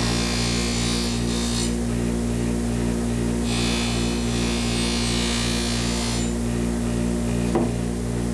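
Motor of a buffing wheel running with a steady hum while a knife edge is held lightly against the wheel in two hissing passes, lasting about two and three seconds, to buff away the last of the burr after sharpening. A short knock near the end.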